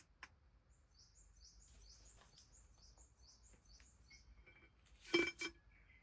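A bird singing a quick run of repeated high chirping notes, about three or four a second. Near the end come two sharp clinks, the loudest sounds here, like camp gear being knocked together.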